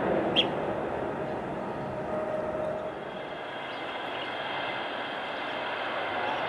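Jet airliner engines running at a distance: a steady rumble with a faint whine over it, and one short click about half a second in.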